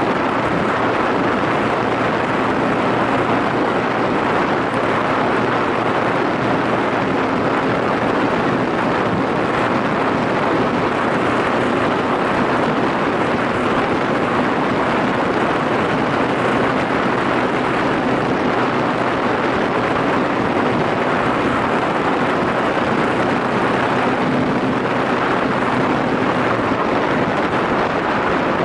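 Yamaha SRX400 single-cylinder engine running at a steady cruising speed, under heavy wind rush on the microphone from riding.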